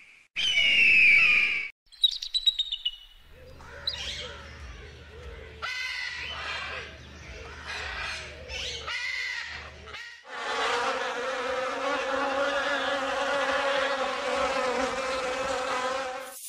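A bald eagle's high, falling chirps. Then blue-and-yellow macaws squawk harshly for several seconds. From about ten seconds in, a steady insect buzz takes over.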